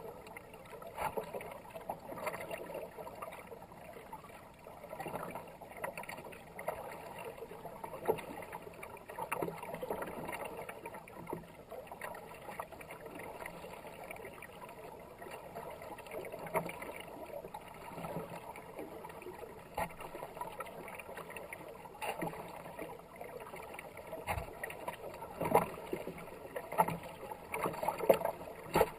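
Kayak paddle strokes, each a short splash as the blade dips, coming about once a second, over the steady wash of fast river water along the hull. The splashes are loudest near the end.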